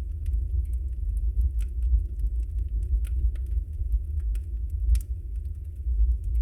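Wood fire burning in a fireplace: irregular small crackles and pops over a steady low rumble, with one louder pop about five seconds in.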